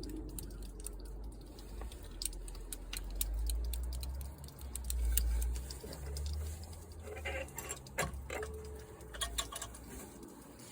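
Scattered light clicks and taps from a lawn mower carburetor being handled, over a low, uneven rumble.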